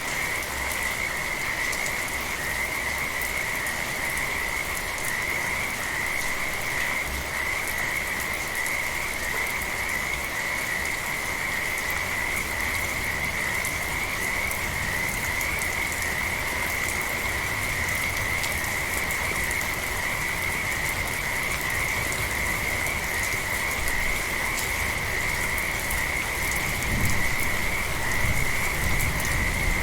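A chorus of frogs calling without a break, a steady high-pitched trilling over a soft hiss of light rain. A brief low rumble rises near the end.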